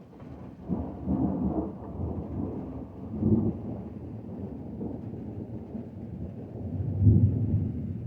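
Long roll of deep thunder, rumbling low and swelling several times: about a second in, again around three seconds, and loudest near the end before it begins to fade. Light rain falls underneath.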